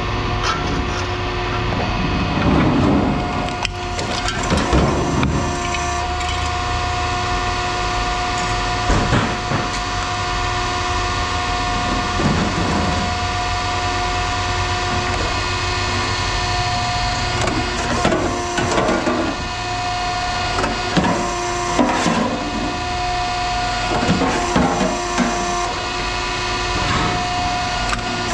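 A steady machine hum with irregular clattering and scraping over it, typical of metal being handled in a scrapyard.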